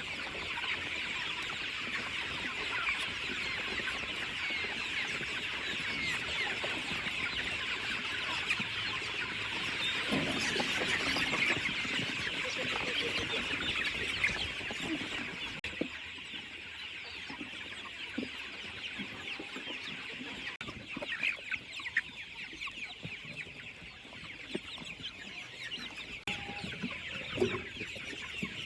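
Flock of chickens calling: a dense chorus of high peeps and clucks that thins out about halfway through, leaving scattered calls.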